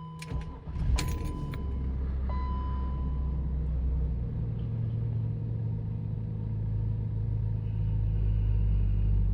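1998 BMW 528i's 2.8-litre inline-six cold-starting: a brief crank, catching about a second in, then idling steadily at cold fast idle. A short electronic dashboard chime sounds a couple of seconds in, and the idle note settles a little lower about four seconds in.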